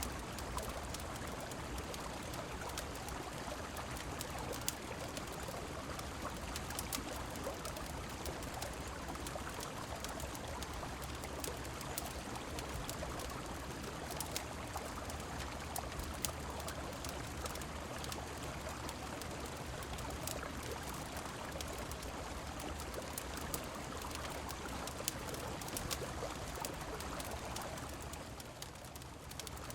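Steady rushing of a flowing river mixed with falling rain, with scattered sharp clicks throughout. The sound dips briefly near the end.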